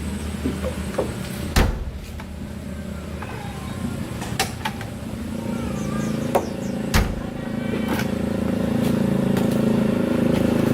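A motor vehicle engine running steadily, growing louder from about halfway through, with a few sharp knocks.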